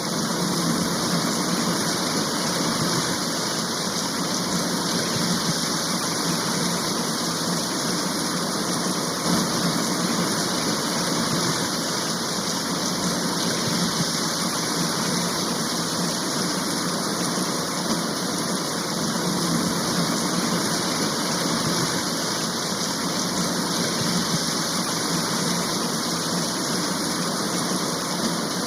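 Steady, even rain-shower noise, without let-up or separate drops standing out.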